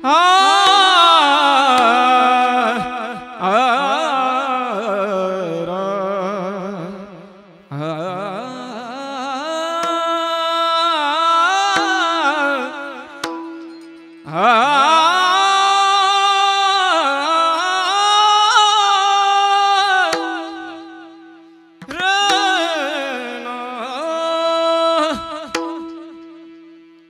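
A male voice singing a slow, heavily ornamented wordless alaap in Marathi kirtan style, in four long phrases that each fade away, over a steady drone note.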